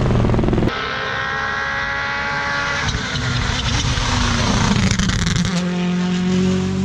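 WRC Rally1 hybrid rally car's turbocharged four-cylinder engine running at high revs as the car drives a stage flat out. The sound changes abruptly about a second in, where the footage cuts to another pass, and turns noisier in the middle before a steady high engine note returns near the end.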